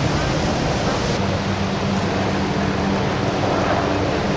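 Steady rush of wind and ocean surf on the microphone, with a low, even engine hum underneath. The highest hiss eases about a second in.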